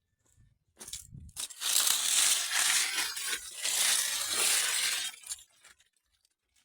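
Close rustling and crunching of leaves or plant growth, a few sharp crackles and then about three and a half seconds of steady, loud rustling that fades out.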